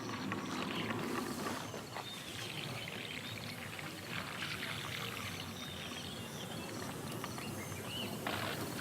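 Outdoor ambience: a steady rushing noise with faint, regular insect chirping high above it and a few soft knocks.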